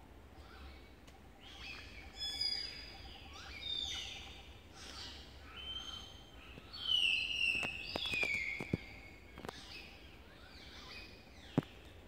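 Several wild forest birds calling, with clear whistled notes, many falling in pitch, loudest about seven seconds in. A soft pulsing note repeats evenly underneath in the first half, and a few sharp clicks come in the second half.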